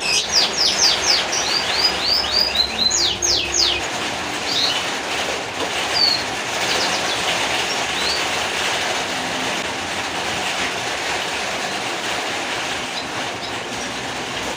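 A steady rushing noise, with a small bird's rapid run of high, downward-sliding chirps in the first few seconds and a few single chirps later.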